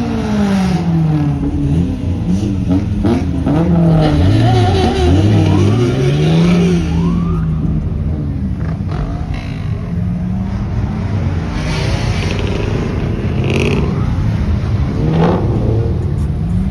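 Car engine revving hard again and again, its pitch swinging up and down, over a steady engine rumble.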